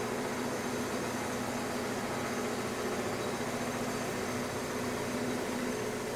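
Steady mechanical drone of construction machinery running, an even noise with a faint low hum and no knocks or breaks.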